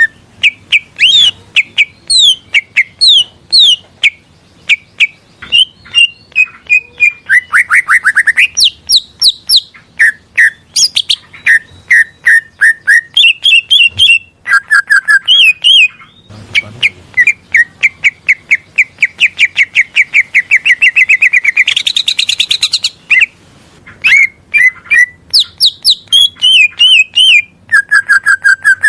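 Cucak ijo (green leafbird) singing a loud, varied song: fast runs of repeated chirps and quick whistled glides, with a long rapid trill in the middle that jumps higher in pitch before breaking off.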